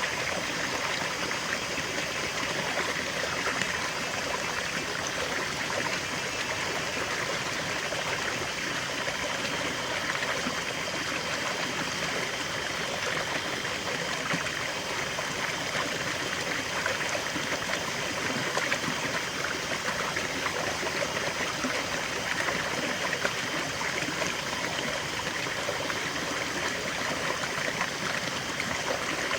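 River water flowing over stones, a steady babbling rush with fine trickling detail.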